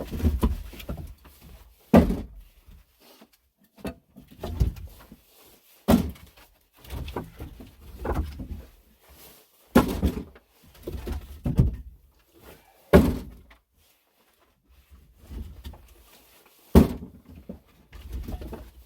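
A string of heavy thumps and knocks at uneven intervals of one to three seconds, with quieter scuffing and handling noise between them.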